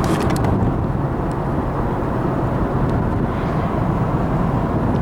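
Steady road and engine noise of a moving car heard from inside the cabin, with a few faint clicks at the very start.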